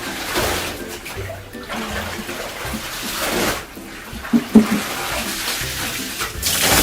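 Bathwater sloshing and splashing in a bathtub as a bed cover is washed in it, coming in several surges, with background music underneath.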